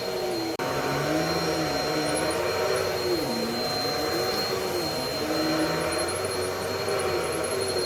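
Bissell PowerLifter Pet 1792 upright vacuum running on carpet: a steady airflow rush and a high whine, with the motor hum wavering up and down in pitch as it works. The sound breaks for an instant about half a second in.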